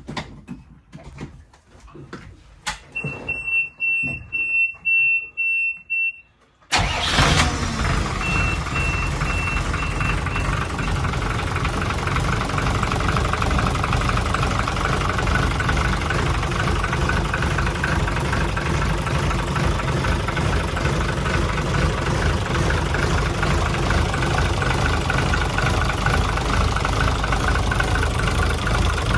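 Yamaha FG36's 200-horsepower N23 inboard engine being started: a few clicks and a pulsing warning beep from the helm, then the engine fires about seven seconds in and settles into a steady idle. The beep carries on faintly for a few seconds after it catches, then stops.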